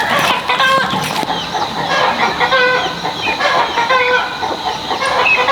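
Several chickens clucking, many short calls overlapping one another.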